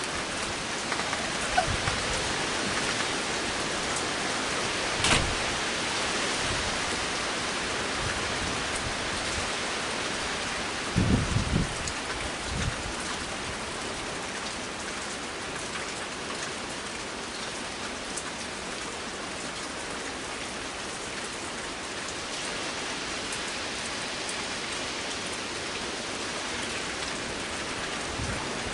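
Heavy rain falling steadily in a storm, a constant hiss. A sharp click comes about five seconds in, and a few low thumps about eleven seconds in.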